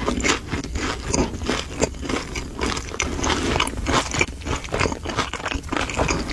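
Close-miked chewing of crispy fried food: irregular crunches, several a second, with wet mouth sounds.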